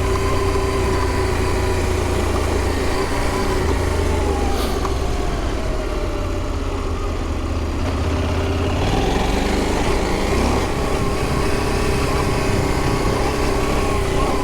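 Adventure motorcycle's engine running while riding a dirt trail, the revs easing off a few seconds in and picking up again a little past halfway.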